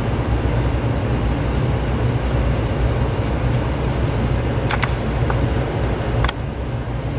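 Steady low rumbling background hum, with a few small sharp clicks past the middle from small plastic handset parts being handled and fitted during reassembly.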